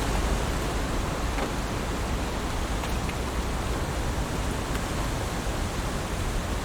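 Heavy rain falling steadily, an even rushing hiss with a few separate drops ticking through it.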